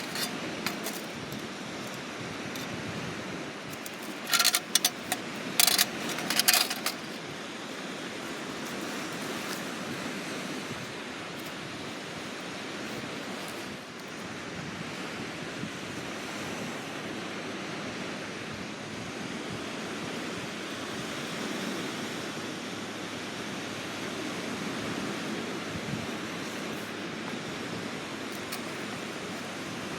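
Steady wash of sea waves on the shore. A quick cluster of sharp clicks and clatter comes about four to seven seconds in.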